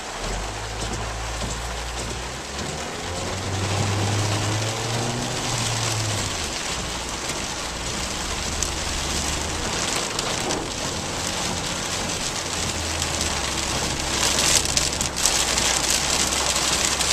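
Heavy rain falling on a car's roof and windshield, with a low steady hum from the stopped car's idling engine underneath. The rain gets louder near the end.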